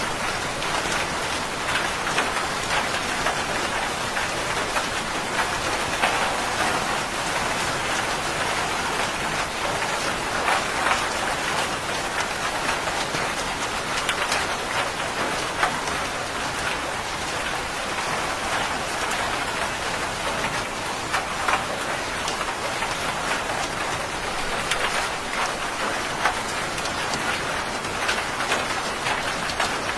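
Steady, heavy rain falling on hard surfaces, with many close drops heard as short sharp ticks over an even hiss. No thunder rumble stands out.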